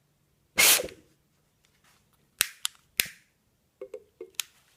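A loud, short burst about half a second in, then three sharp clicks a little after two seconds, during an attempt to light a rubbing-alcohol jar pulse engine. The jar does not fire: no sustained pulsing follows.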